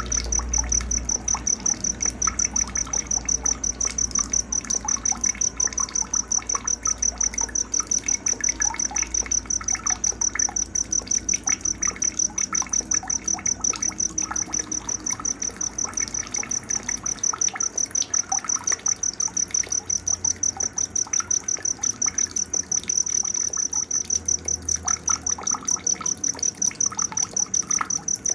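Cricket chirping steadily in an even, rapid pulse at a high pitch, with scattered short bird chirps beneath it.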